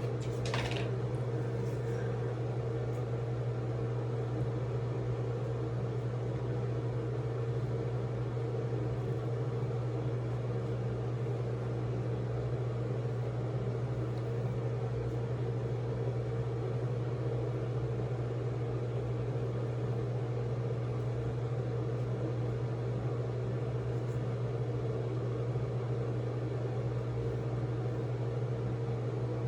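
Steady, unchanging low mechanical hum of a running appliance motor.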